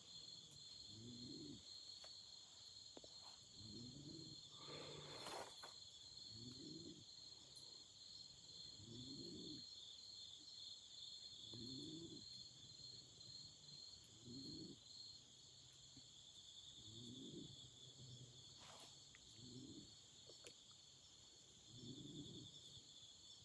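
Autumn insects, crickets among them, chirring steadily and high-pitched, with a low call repeating about every two and a half seconds. A campfire crackles sharply a couple of times.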